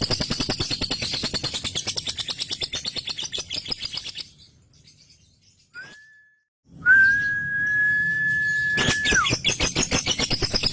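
Male lovebird ngekek: a long, rapid, evenly repeated chattering trill. It breaks off about four seconds in, and after a short pause a steady high whistle is held for about two seconds, dropping in pitch at its end, before the fast chatter resumes.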